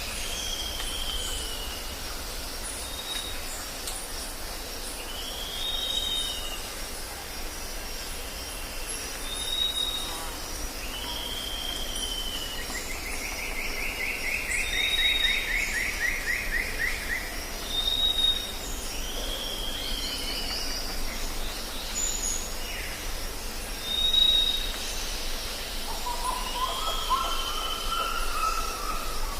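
Jungle ambience: a bird repeats a short falling whistle, each with a brief higher note, about every three seconds over a steady high-pitched buzz and a low rumble. A rapid trill runs for a few seconds in the middle, and a lower run of calls comes in near the end.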